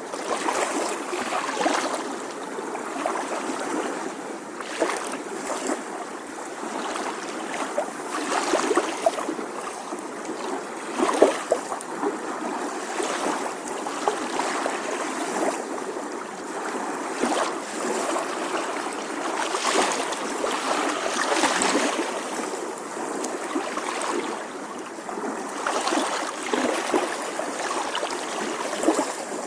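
Small sea waves lapping at the shoreline, a continuous watery wash broken by many short splashes and trickles.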